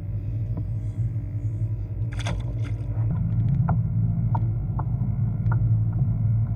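Kayak drive humming steadily while the kayak moves to a new spot on the water. There is a short clatter about two seconds in, then light ticks repeating roughly every 0.7 seconds.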